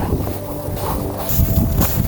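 Blizzard wind buffeting the microphone: a loud, steady rush of noise, heaviest in the low end.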